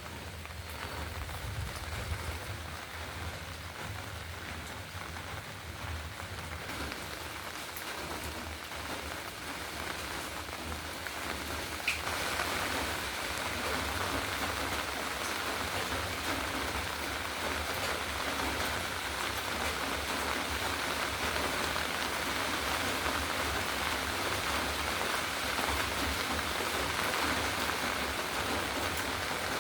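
Steady rain falling, an even patter that grows louder about twelve seconds in.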